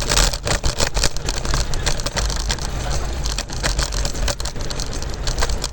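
Scooter riding over rough pavement: a continuous crackling rattle of the wheels and deck, with rumbling wind noise on the microphone.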